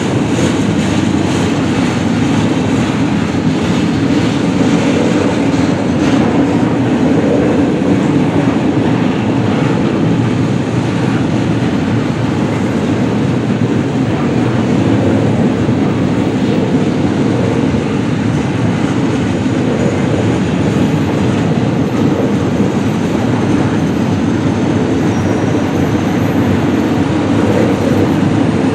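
Train cars rolling past with a steady rumble and wheel-on-rail clatter.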